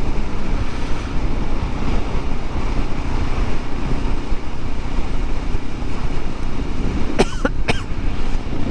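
Honda CT125 Hunter Cub under way, heard as a steady rush of wind and road noise on the rider's microphone with little engine note. Two short, sharp sounds come close together near the end.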